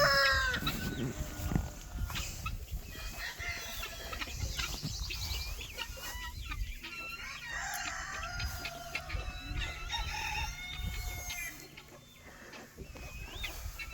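Chickens clucking and calling in the pens, with the tail of a rooster's crow right at the start. A faint steady hum runs through the middle.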